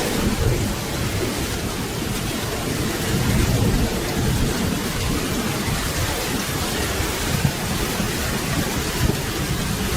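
Steady rain with a low rolling rumble of thunder underneath, swelling about three to four seconds in.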